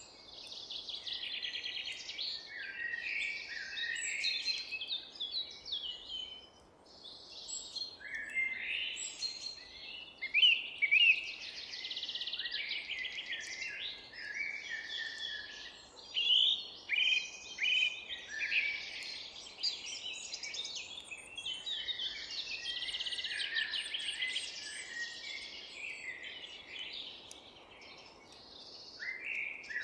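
Several songbirds singing and chirping at once in a forest chorus, with dense overlapping trills and rapid chirps, and a brief lull about six seconds in. A faint steady hiss of background noise lies underneath.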